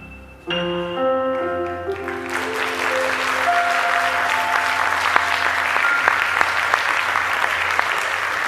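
A piece of instrumental music ending on a held chord, which starts about half a second in; about two seconds in, audience applause breaks out and continues, with a few faint lingering notes under it.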